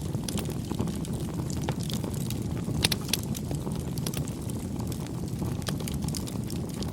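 Wood campfire burning: a steady low rumble of flames with frequent irregular crackles and pops, two louder pops about three seconds in.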